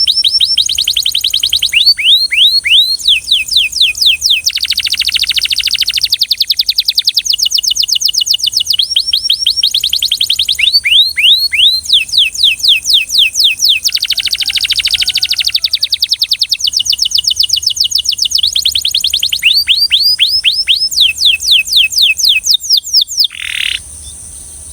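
Belgian canary singing an almost unbroken song of fast trills and runs of repeated downward-sweeping notes, switching to a new phrase every couple of seconds. The song stops about a second before the end.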